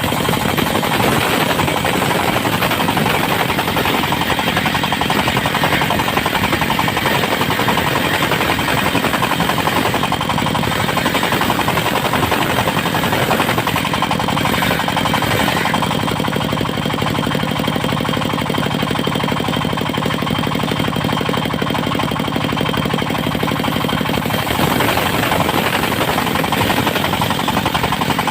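Diesel engine of a portable circular sawmill running steadily under power, with a fast, even pounding beat and a rough, noisy edge that shifts a little now and then.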